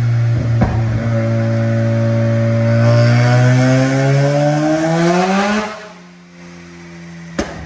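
Mazda RX-7 FD rotary engine revving: it holds a steady note, climbs slowly in pitch for about four seconds, then drops off suddenly to a quieter, lower steady running. A sharp pop comes near the end.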